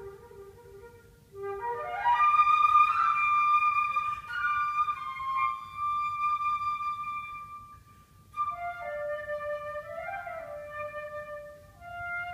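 Solo flute playing: low notes fade away, then a quick rising run leads into a loud, long high note that is held and dies away about eight seconds in. A new phrase follows, with a brief upward flourish.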